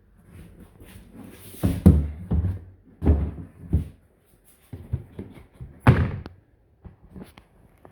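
A series of irregular knocks and thuds, the loudest about two seconds in and about six seconds in.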